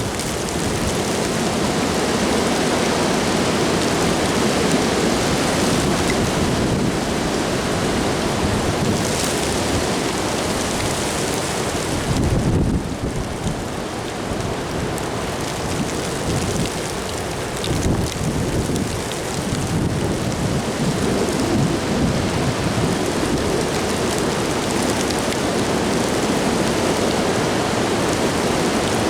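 Rain falling steadily in a windy storm, with low rumbles surging up about twelve seconds in and again around eighteen seconds.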